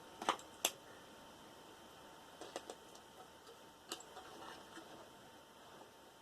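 A few light, scattered clicks and ticks of small hand tools and metal bits being handled while copper wire is worked out of a cut cable, the sharpest two in the first second.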